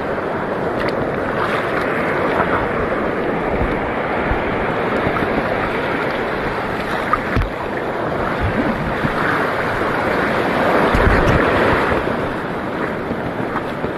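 Sea water washing and surging, swelling for a couple of seconds near the end, with wind buffeting the microphone in a few low thumps.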